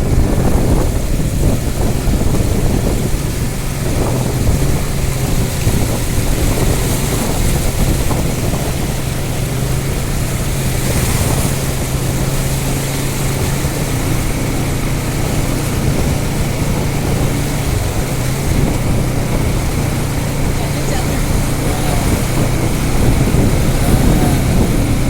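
A vehicle engine runs steadily at an even pitch, with a constant low hum over a rushing noise.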